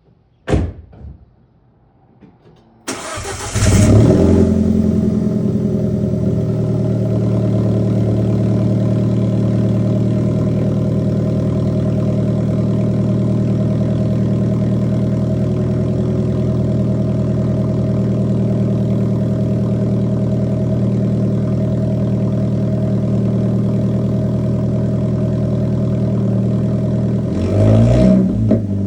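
Alfa Romeo 4C's turbocharged 1.75-litre four-cylinder cold-starting. A sharp click about half a second in, then about three seconds in the engine cranks and catches, flares up and settles into a steady fast cold idle. It is briefly revved near the end.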